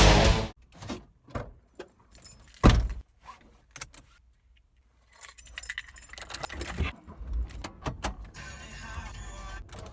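Loud music that cuts off about half a second in, followed by scattered clicks, knocks and rattles, with a near-silent gap near the middle and a low, irregular clatter toward the end.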